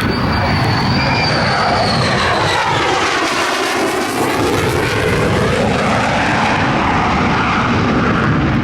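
An airplane passes low, its engine noise loud and steady, with a high whine that falls in pitch over the first two seconds as it goes by.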